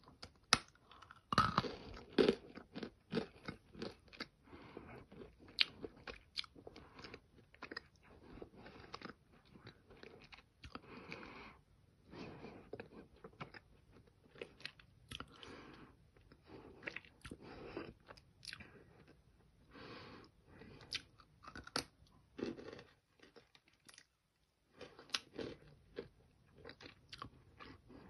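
A person biting and chewing a chunk of Nakumatt edible clay: close, irregular dry crunches, loudest in the first few seconds, with a short pause near the end.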